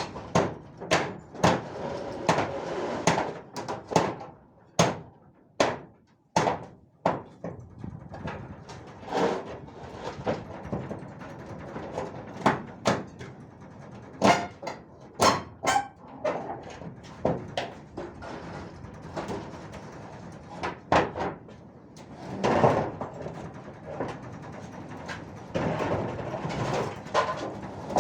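Irregular sharp knocks and clattering, some coming in quick runs of several strikes. Between them are patches of rustling, scraping noise.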